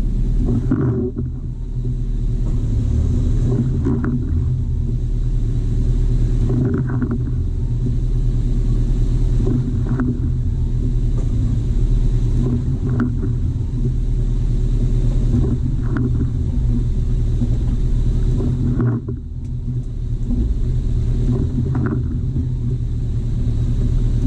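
A four-wheel-drive's engine running steadily with a low rumble, with faint short ticks about every three seconds.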